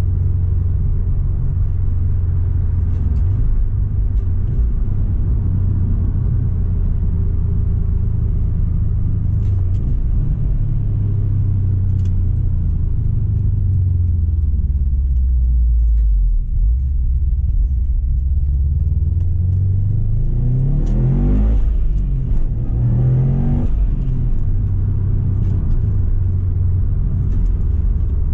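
Turbocharged flat-four of a tuned 2008 Subaru Impreza STI running through a Milltek exhaust under way, with a steady low drone while cruising. About two-thirds through, it pulls hard twice, the engine pitch rising each time, with a gear change between the two pulls.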